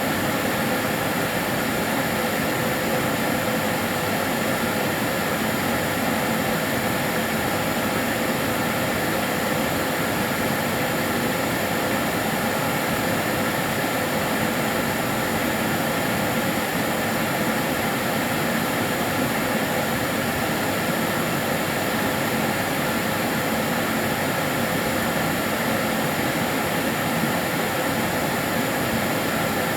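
Karcher DS 6 Premium water-filter vacuum cleaner running steadily: an even rushing hum of its motor and airflow with a few fixed whining tones, unchanging throughout.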